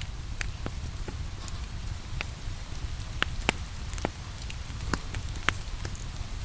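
Steady rain mixed with a crackling wood fire: a constant low rumble and hiss broken by irregular sharp crackles and pops, a few louder snaps around the middle.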